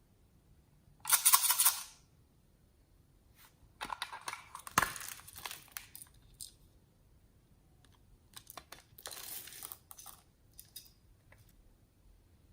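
Three short bursts of crinkling and tearing, with scattered small clicks between, from hands handling materials for slime mixing.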